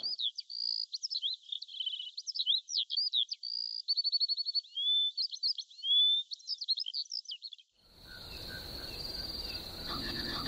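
A songbird singing a varied song of whistles, trills and chirps, which stops about eight seconds in. Crickets then take over with one steady high trill over a faint hiss.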